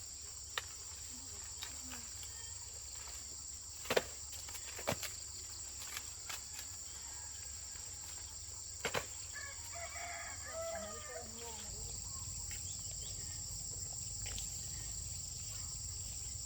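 Steady high-pitched chirring of insects throughout, with a few sharp clicks and, about ten seconds in, a chicken calling. A low hum joins about twelve seconds in.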